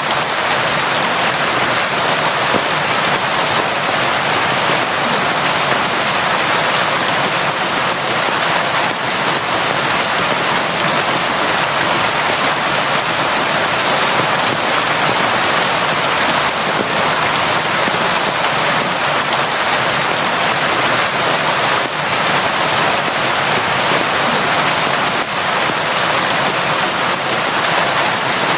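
Steady, heavy rain falling, an even hiss of drops without a break.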